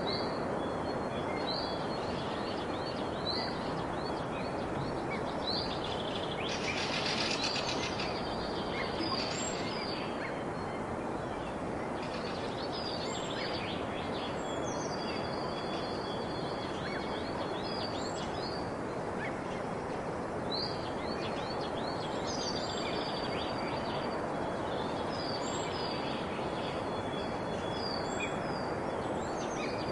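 Birds singing and chirping repeatedly, short high notes mixed with a few longer level whistles, over a steady background hiss.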